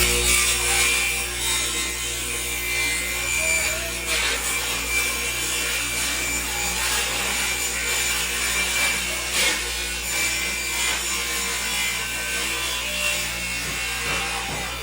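Abrasive rubbing on wood, a continuous scraping or sanding-like sound that runs steadily with small swells.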